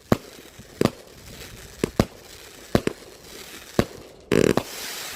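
A 100-shot firework cake going off: sharp reports about once a second, then a quick rattling cluster of bangs near the end that trails into a hiss.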